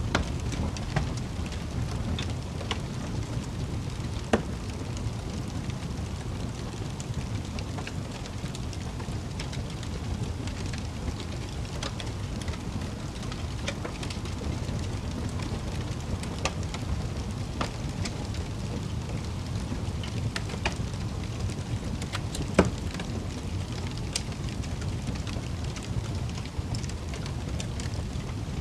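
Wood fire in a fireplace crackling, with a steady low roar under scattered small crackles and two louder pops, one about four seconds in and one near the end.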